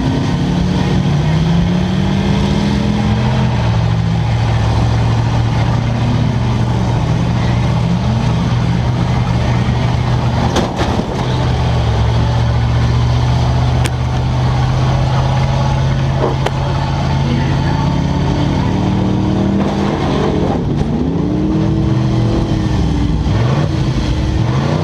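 Demolition derby cars' engines revving hard and easing off, pitch rising and falling over a steady din, with a few sharp knocks about halfway through.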